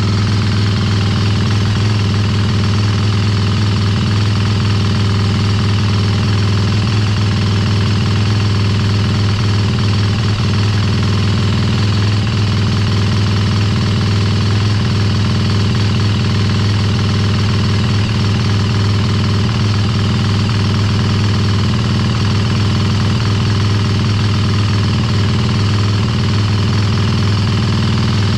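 Sherco 300 SEF Factory's single-cylinder four-stroke engine idling steadily, being warmed up with fresh oil after an oil change.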